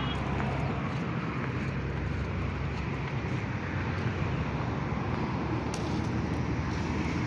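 Steady road traffic noise, a low engine hum that fades about halfway through, with a brief click near the end.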